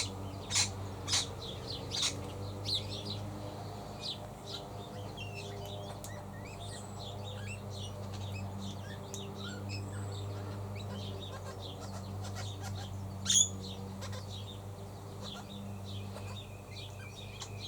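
Lawn mowers running in the distance, a steady engine drone, under frequent short bird chirps and calls, with a few louder sharp calls in the first two seconds and one about thirteen seconds in.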